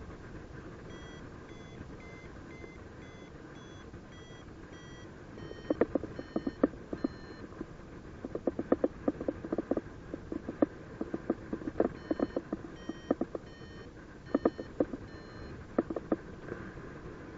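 Paragliding variometer beeping in short, evenly spaced pitched tones, about two a second, its climb tone signalling that the glider is rising in lift. From about six seconds in to near the end, loud clusters of rapid sharp clicks come in over it.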